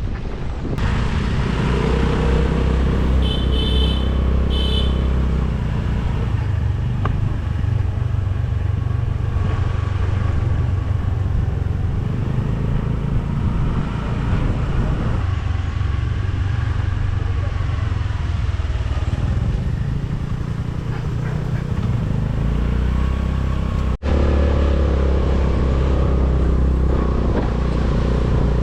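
Motorcycle engine running steadily while riding, with road and wind noise. Two short high beeps about three and four and a half seconds in.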